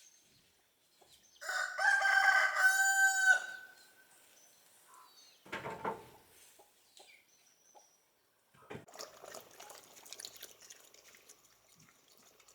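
A rooster crows once, about a second and a half in, ending on a long held note. A short thump follows a few seconds later, then scattered rustling and clicking.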